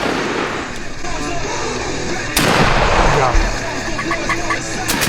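A shotgun shot about two and a half seconds in, its report trailing off over roughly a second, over music and voices.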